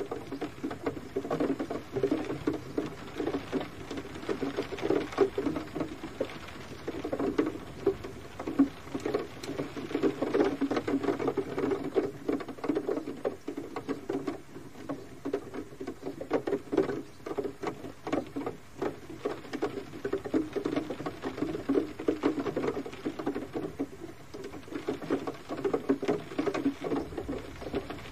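Gentle rain: a steady, dense patter of irregular drops.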